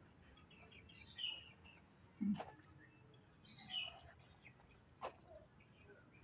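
Birds chirping in two short bursts of high notes over faint outdoor background, with two sharp clicks, one near the middle with a dull thump and one near the end.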